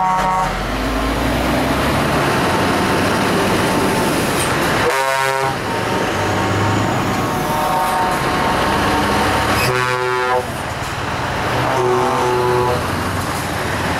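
Truck air horns honking several times, in blasts of different pitches, over the running of heavy truck engines.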